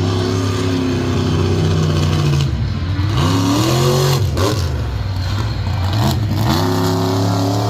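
A racing truck's engine running hard at high revs, with the pitch dipping and climbing back a few times as the throttle is lifted and reapplied.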